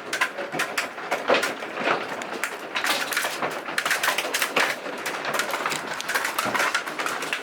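Large hailstones falling and striking hard surfaces: a dense, irregular clatter of many sharp hits.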